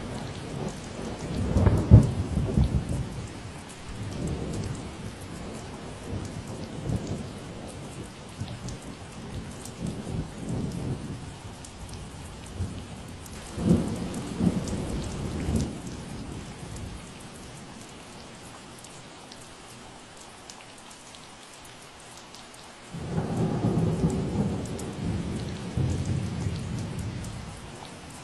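Steady rain falling, with low rolls of thunder rumbling three times: a loud one about two seconds in, another around the middle, and a long one starting near the end.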